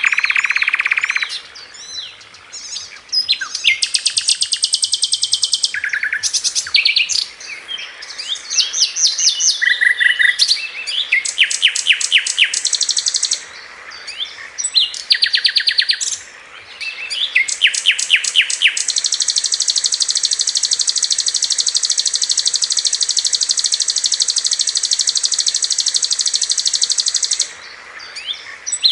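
Sikatan londo flycatcher song made of rapid high chirps and fast trilled note runs, the quick 'tembakan' bursts. It ends in one long, even, high trill lasting about eight seconds.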